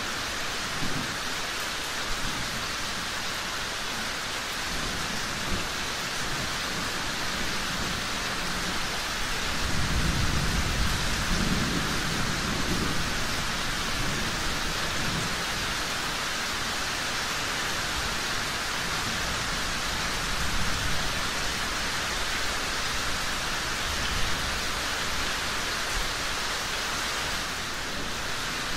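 Steady heavy rain. About ten seconds in, a long low roll of thunder lasts a few seconds, with a weaker rumble later. A few sharp pops stand out here and there.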